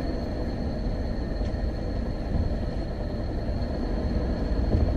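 Steady low rumble of a car's road and engine noise heard from inside the moving cabin.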